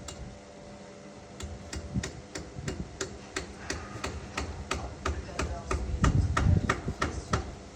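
Indesit My Time EWD61052 washing machine running: a low rumble that swells twice, with a regular clicking about three times a second from about a second and a half in, under a faint steady hum.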